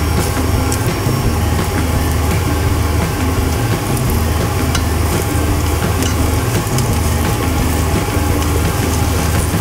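Eggplant pieces sizzling in hot oil in a frying pan as they are stirred with chopsticks, with scattered light clicks of the chopsticks on the pan, over a low, steady hum.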